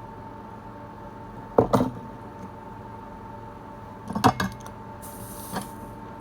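Small metal bench tools clicking and clinking in two quick clusters during capacitor replacement on a circuit board, with a softer tap and a brief high hiss near the end, over a steady faint hum.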